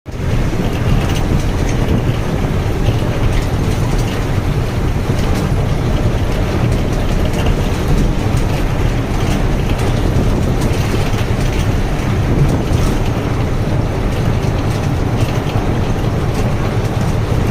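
Heavy rain pouring, a loud steady rushing noise with a deep rumble underneath.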